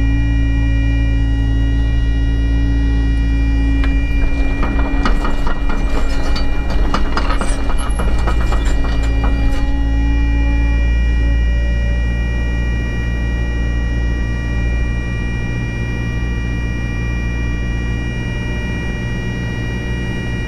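Cat 307 excavator running steadily with a loud engine hum and whine, with a stretch of rattling, scraping clatter from about four to ten seconds in.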